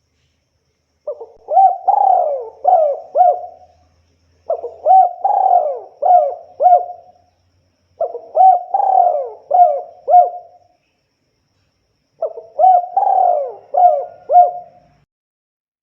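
Spotted dove (tekukur) cooing its song four times, each phrase a run of about five rising and falling coos, with short pauses between phrases.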